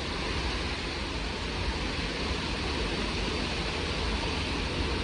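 Strong gusty wind blowing steadily, with a low rumble of the wind buffeting the microphone.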